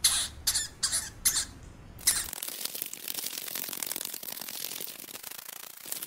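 Steppe pika giving four short, high squeaking calls, about half a second apart. About two seconds in they give way to a dense, fast crackle of clicks that runs on steadily.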